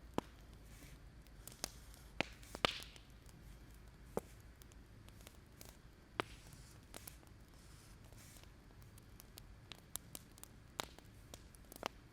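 Wood fire crackling: irregular sharp pops and snaps over a low steady rumble, with the loudest pop about two and a half seconds in.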